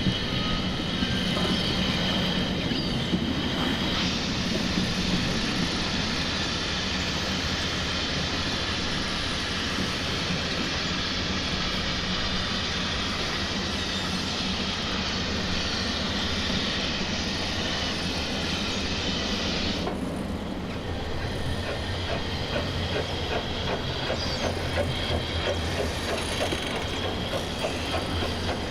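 Train of wagons rolling along rails: a steady, continuous railway sound that changes character about four seconds in and again about twenty seconds in.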